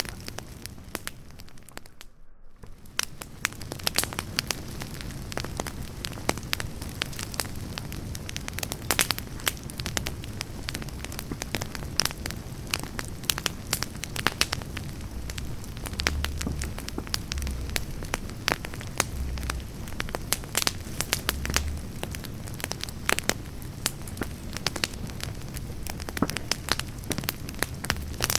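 Wood campfire crackling, with frequent irregular sharp pops over a steady hiss. The sound briefly drops away about two seconds in.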